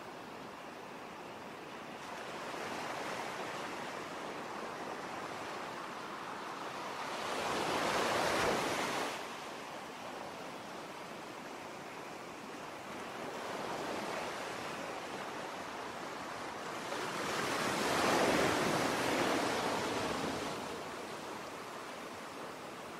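Sea waves washing ashore: a steady hiss of surf that swells and breaks in two larger surges about ten seconds apart.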